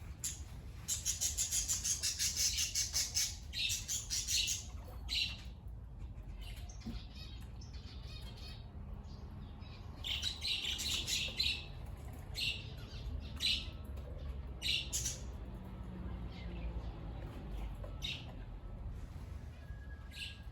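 Aviary birds chirping and squawking. A fast run of high chirps comes about a second in, another around ten seconds, and single calls are scattered between.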